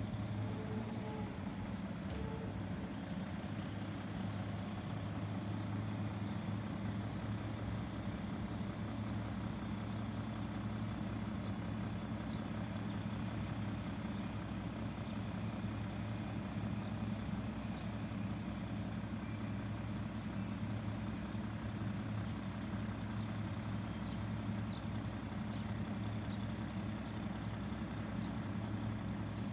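Garbage truck's diesel engine running steadily with an even, unchanging hum.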